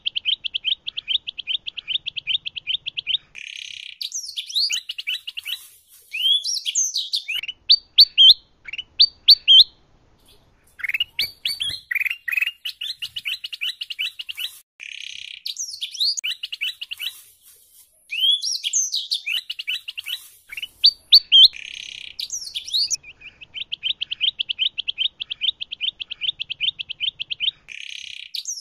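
Canary and kutilang emas bulbul song mixed together: long, fast, even trills alternate with louder, sharp whistled notes and quick sweeps, with short pauses between phrases.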